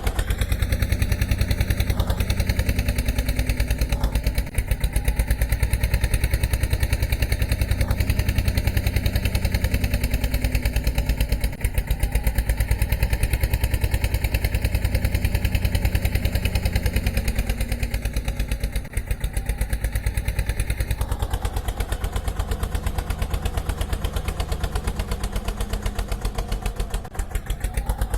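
Road roller's diesel engine running steadily with an even, rapid chugging pulse.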